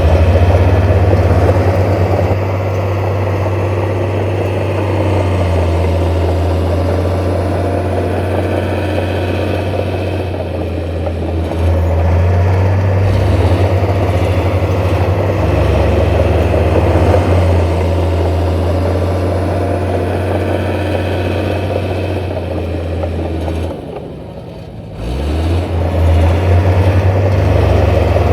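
Heavy diesel engine of earth-moving machinery running steadily, with a low drone that shifts pitch now and then; it drops away briefly about 24 seconds in and then comes back up.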